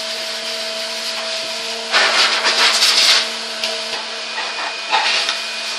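Vintage Goblin Triumph cylinder vacuum cleaner running in blowing mode, its motor humming steadily as air blows out through the hose and crevice tool. About two seconds in, a louder rush of air lasts about a second.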